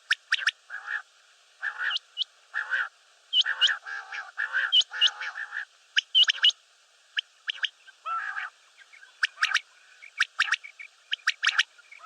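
Common quail calling: series of short, sharp, whistled notes interspersed with lower, rougher notes, coming in irregular bouts with brief pauses between them.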